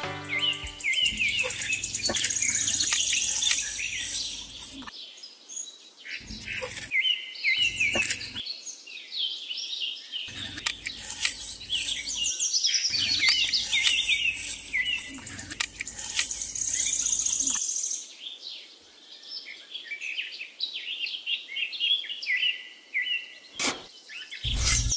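Small birds chirping and twittering in quick, high trills, with a low rustling in stretches underneath.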